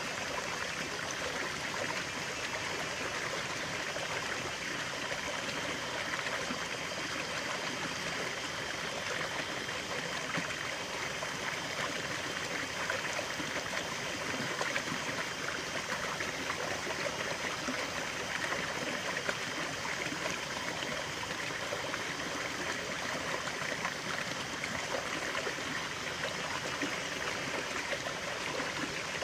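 Stream of running water flowing and trickling steadily, with a constant bubbling rush.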